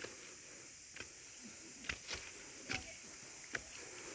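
Footsteps on a hiking trail, a step roughly every second, over a steady high-pitched hiss.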